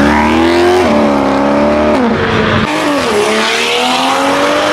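Car engine revving hard, its pitch climbing, dropping back about a second in and again around two seconds, then climbing steadily through the last part.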